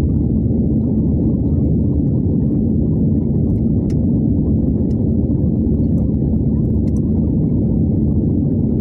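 Steady low rumble of an Airbus A320 cabin in flight, engine and airflow noise, with a faint steady hum and a few faint ticks.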